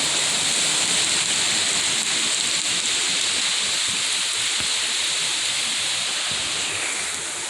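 Hurricane rain and wind: a steady, even rushing hiss that eases slightly near the end.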